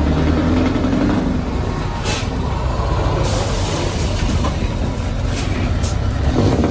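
Heavy truck engine running under load, with short bursts of air hiss about two seconds in and again around the middle.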